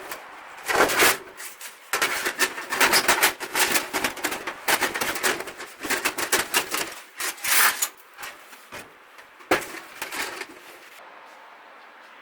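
Irregular clattering and knocking of hard objects being handled, stopping about eleven seconds in.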